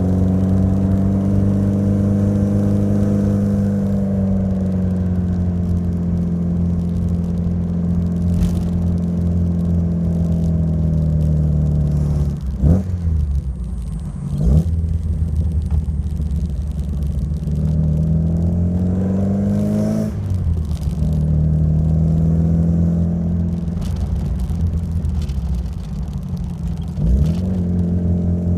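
Alfa Romeo Alfasud Sprint QV's 1.5-litre boxer flat-four running through a stainless steel exhaust. The revs rise and fall slowly, with about four quick, sharp swings in revs along the way.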